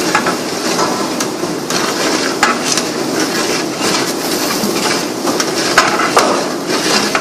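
Chopped garlic, onion and green chillies sizzling in hot oil in a large aluminium pot, while a long-handled ladle stirs them, scraping and knocking against the pot. The sizzle is a steady hiss, with the ladle's strokes irregular and sharp.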